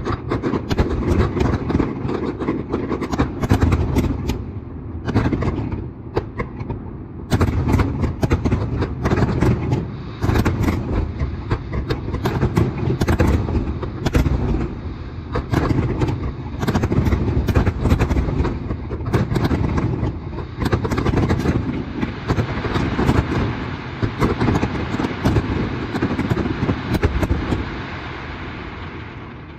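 Fireworks display: aerial shells going off in a dense, near-continuous barrage of bangs and crackling, played at double speed. The barrage dies away near the end.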